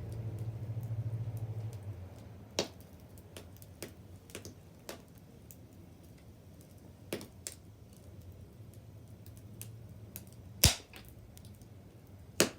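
Wood bonfire crackling, with scattered small ticks and a few sharp pops from the burning wood, the loudest a little before the end.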